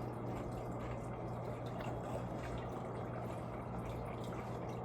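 Steady low hum under a faint even hiss, with no distinct events: room tone.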